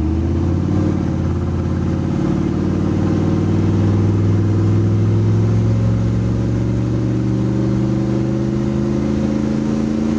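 Turbocharged 6.2-litre V8 diesel pulling under throttle in a Chevy truck. Its pitch climbs slowly over the first few seconds, then holds nearly steady as it builds about 5 psi of boost.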